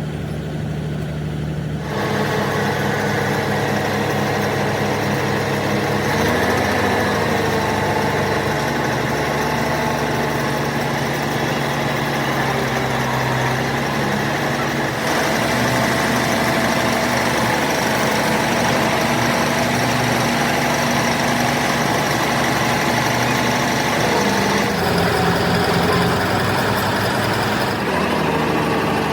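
An engine idling steadily, its tone changing abruptly a few times.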